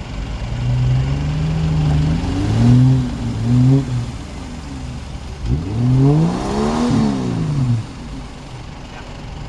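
Jeep engine revving in repeated surges, pitch climbing and falling back several times, as the stuck 4x4 struggles for wheel grip in the river crossing; the revs drop away near the end.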